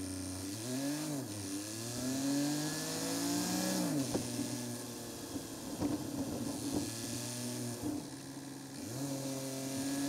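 Seat Ibiza's engine pulling away and accelerating, its pitch climbing and then dropping several times as it shifts up. Midway there is a stretch of tyre rumble and clatter over block paving, and the engine climbs again near the end.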